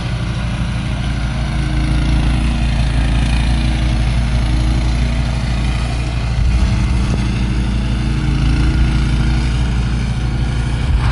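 An engine running steadily at an even speed, with a hiss of noise over it.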